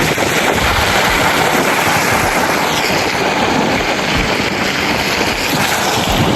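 Wind in a snowstorm blowing over the microphone: a steady, loud rushing hiss with uneven low buffeting.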